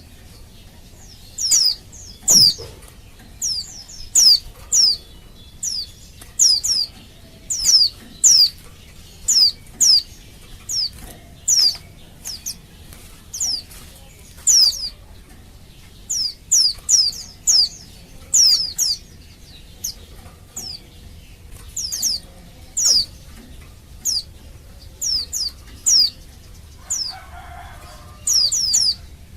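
Female white-eye (pleci) calling to males: short, high call notes that sweep downward, repeated one or two a second and often in quick pairs.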